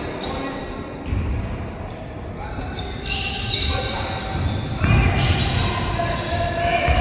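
Basketball bouncing on an indoor court during a game, several sharp thuds a second or two apart, over background voices.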